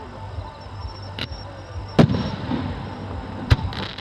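Aerial fireworks bursting: a sharp bang about a second in, a louder boom with an echoing rumble at two seconds, another sharp bang about three and a half seconds in, then a quick run of crackles near the end.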